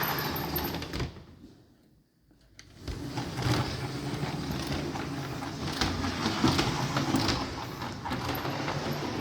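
Model railway train running on the layout: a small electric motor and wheels clicking on the track. It starts about three seconds in, after a short quiet spell, and keeps going.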